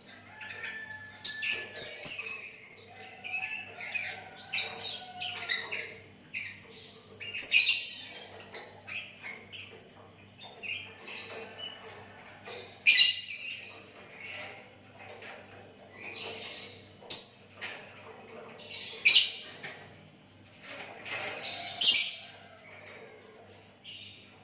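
Sooty-headed bulbul (kutilang) singing actively: a run of short whistled and chirping phrases, with louder calls every few seconds.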